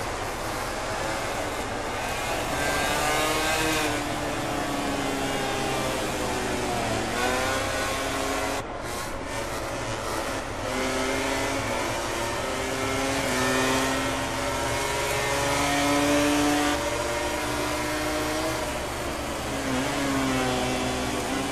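MotoGP racing motorcycles' 1000 cc four-cylinder engines revving hard and shifting gear, several bikes at once, their pitch repeatedly rising and falling.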